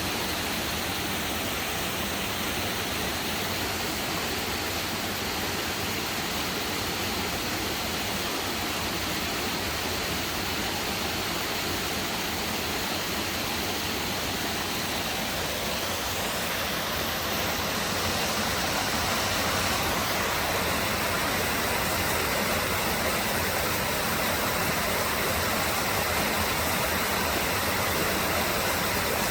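Steady rushing water, like a stream or waterfall, an even continuous hiss that swells slightly louder partway through.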